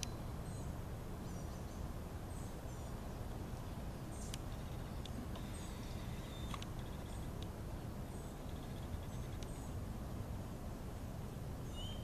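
Small birds chirping in short, high notes that repeat through the whole stretch, with a few brief buzzy trills, over a steady low outdoor rumble.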